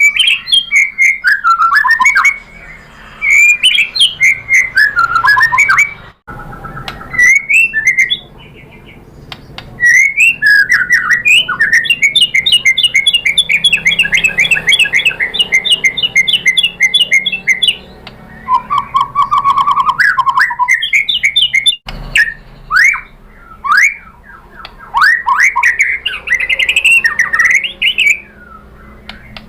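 White-rumped shama (murai batu) singing loud, varied whistled phrases. A long fast trill runs from about a third of the way in, followed by a lower rattling trill. The song breaks off abruptly twice.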